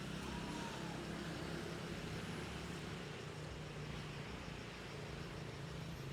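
Steady low hum of a running vehicle engine over an even outdoor background noise.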